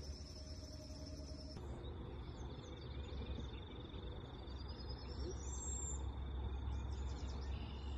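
Steady, high, pulsing insect trills, with a bird's rising whistled call about five seconds in and a few short chirps after it, over a constant low background rumble.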